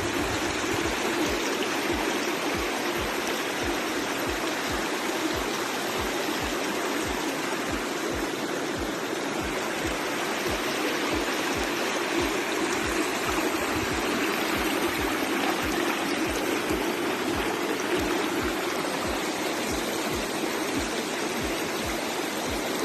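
Steady rushing of a river pouring over rocks at a waterfall, with faint background music keeping a regular beat of about two low thumps a second underneath.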